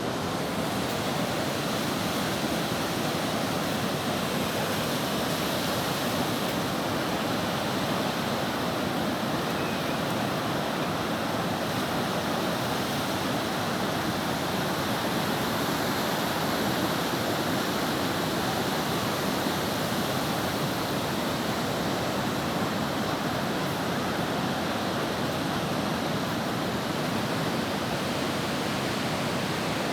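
Ocean surf breaking on a beach: a steady, even wash of waves with no pauses or sudden events.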